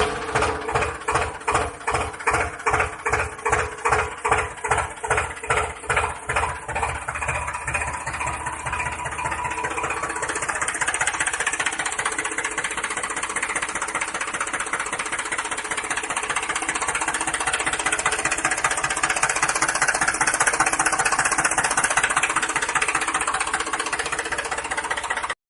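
An engine running with slow, even chugs about two to three a second, which merge into a steadier running sound after about eight seconds.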